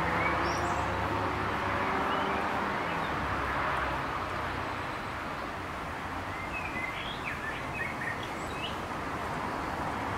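Short high bird chirps, a few faint ones near the start and a cluster of them about seven to nine seconds in, over a steady background hiss and low hum.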